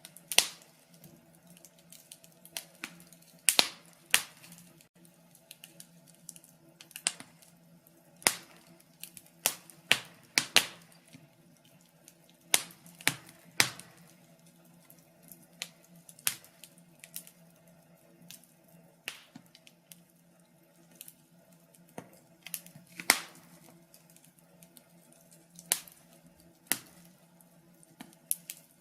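Wood fire crackling: irregular sharp pops and snaps, a few a second, some much louder than others, over a faint low steady hum.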